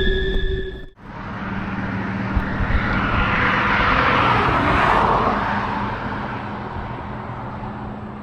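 Steady high-pitched squeal of train wheels that cuts off abruptly about a second in, then a train passing: a rushing, rolling noise over a steady low drone that swells to a peak around the middle and fades away.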